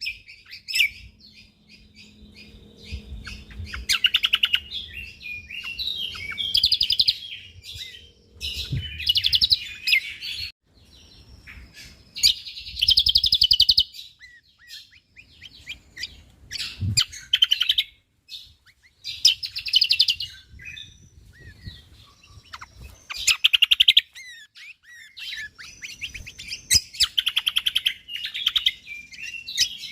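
Cucak kombo (kecial kombo) songbird singing in dense bursts of rapid, high chattering notes, each burst lasting a second or two, repeated every few seconds.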